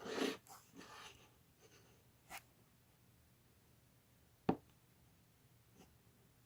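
A short rustling scrape, then a few isolated small taps and clicks, the sharpest about four and a half seconds in.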